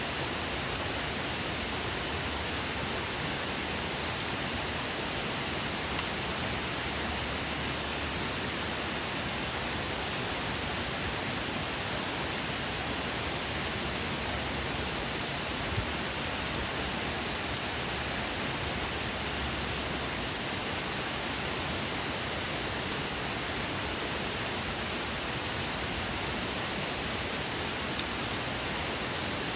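Steady outdoor hiss at an even level, with a strong high-pitched band and no distinct pops or crackles.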